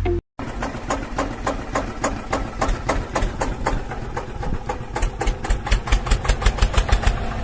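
Small motor of a DIY mini tractor model running with a rapid, regular pulsing beat, about five or six beats a second, that quickens and grows louder near the end.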